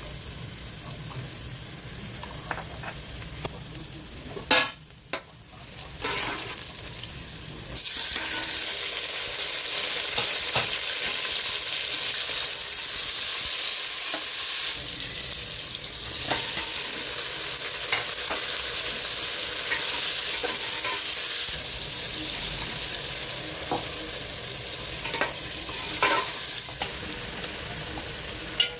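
Food sizzling as it fries in hot oil in a cooking pot, stirred with a spoon that knocks and scrapes against the pot now and then. The sizzle jumps much louder about eight seconds in and stays loud.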